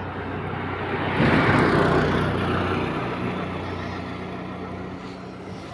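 A motor vehicle passing on a road: engine noise and tyre hum build to a peak about a second and a half in, then fade away as it moves off.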